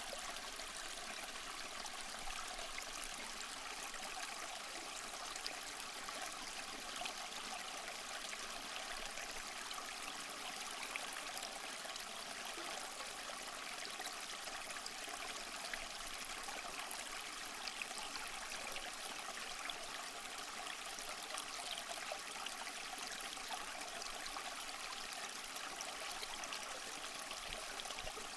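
Small waterfall trickling and splashing steadily over mossy rocks, a continuous light water noise with fine splashes and little low rumble.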